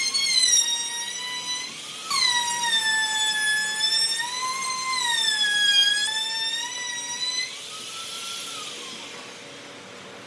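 A high-speed electric power tool whining as it cuts or grinds wood. Its pitch sags and recovers as load comes on and off. It stops briefly about two seconds in, cuts out near three-quarters of the way through, and is followed by a brief fainter whine.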